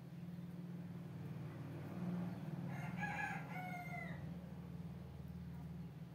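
A rooster crowing once, about three seconds in, over a steady low hum.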